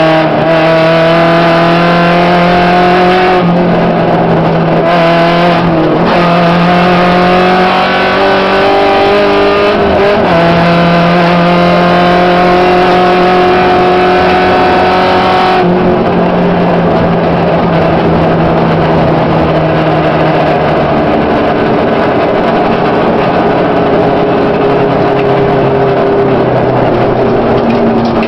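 Volkswagen Gol rally car's engine, heard from inside the cabin, pulling hard with the revs climbing. The pitch dips briefly about three times along the way. About halfway through the driver lifts off, and the engine note falls and runs at lower revs to the end.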